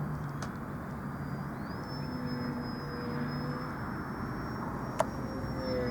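Radio-controlled model airplane's motor whining in flight, its high whine rising about a second and a half in and then holding steady; a sharp click about five seconds in.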